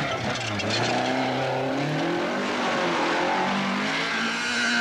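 Rally car engine revving hard as it passes close on a gravel stage, its pitch climbing and dropping several times through the gear changes.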